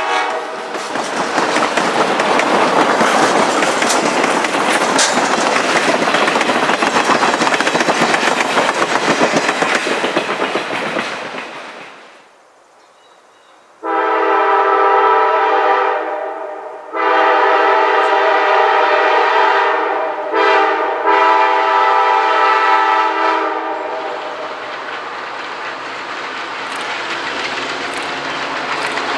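Passenger train cars rolling past close by, their wheels rumbling and clicking over rail joints. Then an EMD GP9RM diesel locomotive's multi-note air horn sounds long, long, short, long, the grade-crossing signal, as the train approaches. Its engine and wheels can be heard more quietly near the end.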